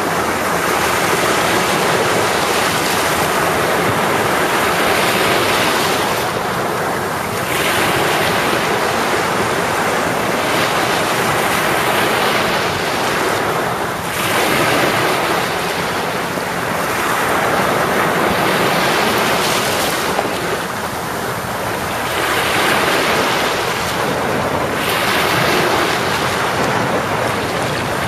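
Sea waves breaking and washing up a shore: a continuous rush of surf that swells and eases every few seconds.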